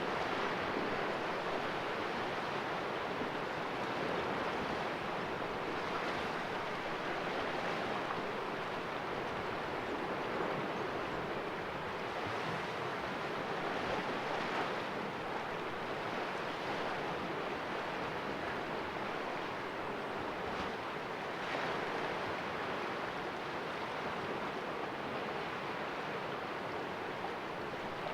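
Sea waves washing and splashing against the rocks of a cove, a continuous surf with gentle swells every few seconds.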